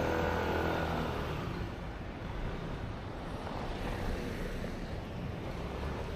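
Motor vehicle traffic: a steady low engine hum, with one engine's note that fades out over the first second or two as it passes.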